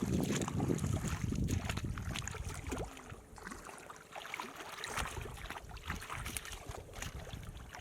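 Water splashing and sloshing in short irregular bursts, with wind rumbling on the microphone; the rumble drops away briefly about three seconds in and returns about two seconds later.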